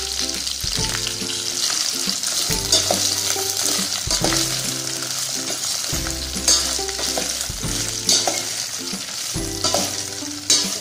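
Pirandai (adamant creeper) stems and dried red chillies sizzling in hot oil in a stainless steel pan, stirred with a steel ladle. A few sharp clinks of the ladle against the pan come in the second half.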